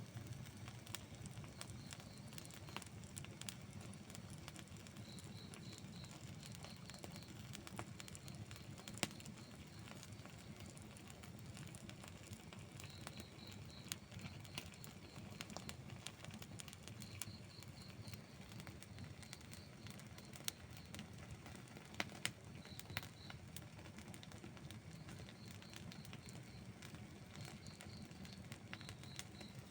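Wood fire burning, crackling and popping: scattered sharp snaps over a low steady rush, with a few louder pops. A faint high chirping in short runs of a few notes comes and goes.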